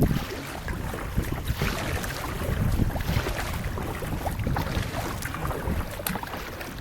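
Water splashing and lapping around a kayak as it is paddled, with light wind rumbling on the microphone.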